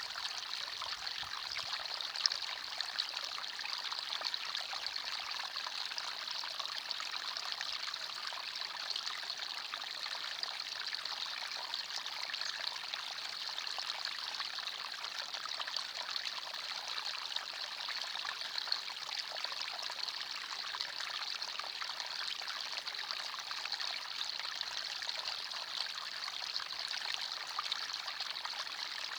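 Forest stream flowing steadily, water trickling and splashing over stones in a constant, even rush.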